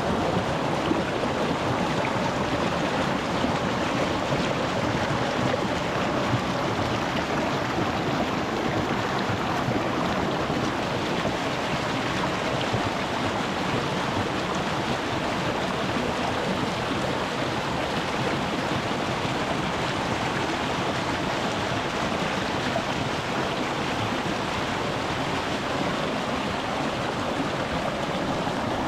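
Shallow rocky mountain stream flowing over stones: a steady, even rush of water.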